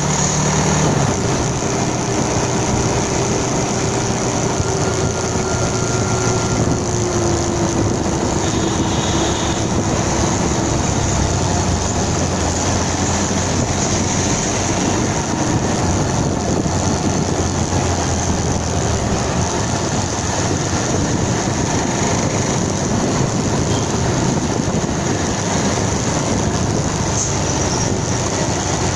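Motorcycle on the move: its engine running under a steady, loud rush of riding noise.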